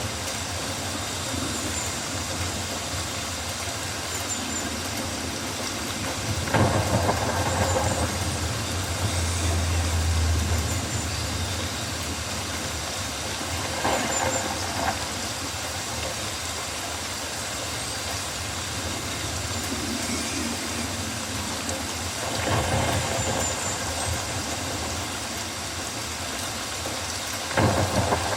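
Rainforest rain ambience: steady rainfall with four louder swells a second or so long, and faint, short, high chirps scattered through.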